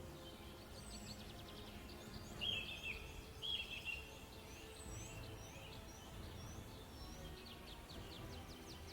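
Birds calling in a natural setting: a string of short, high, falling notes repeated about once a second, two louder chirping phrases about two and a half and three and a half seconds in, and quick ticking trills near the start and near the end, over a faint low background rumble.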